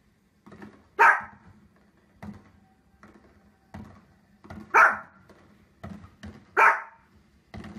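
Small dog barking: three loud, sharp barks a couple of seconds apart, with fainter short pops and thumps between them.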